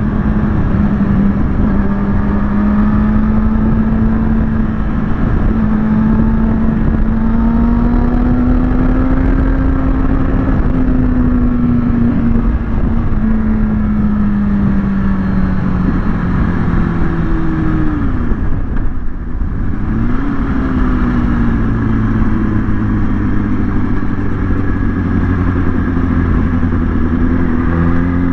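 Kawasaki ZX-6R inline-four sportbike engine running at steady cruising revs, its pitch drifting slowly up and down, over constant wind rush. About two thirds of the way through the revs fall away, briefly drop off, then climb again.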